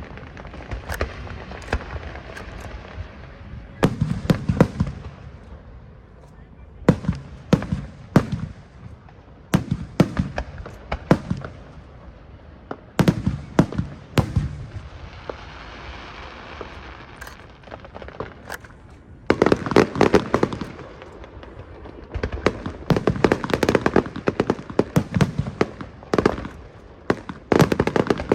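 Aerial fireworks shells bursting overhead in quick clusters of sharp bangs, with crackling fizz between the volleys and a dense barrage near the end.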